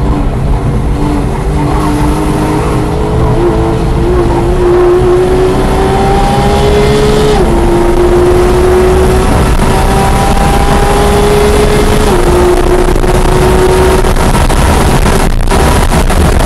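2016 Porsche 911 GT3 RS's naturally aspirated flat-six accelerating hard. Its note rises steadily, drops sharply at two upshifts about seven and twelve seconds in, then climbs again. Heard from inside the car over steady road and wind noise.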